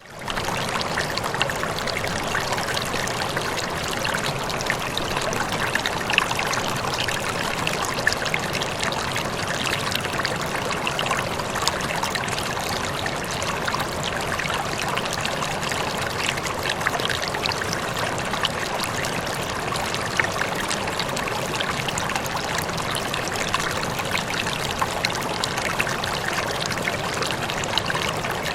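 Running water flowing steadily, like a stream, with many small splashes and trickles through the flow.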